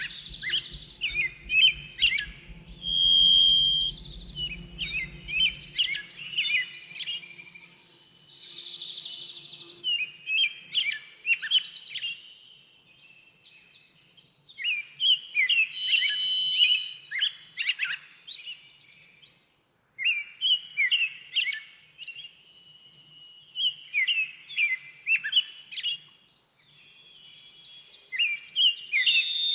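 Several small songbirds chirping and calling in quick, overlapping bursts, with a few rapid high trills mixed in.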